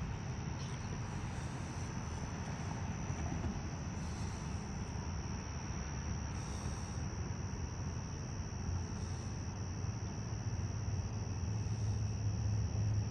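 Crickets trilling steadily in a high, even tone over a low rumble from an approaching diesel freight locomotive, the rumble growing louder near the end.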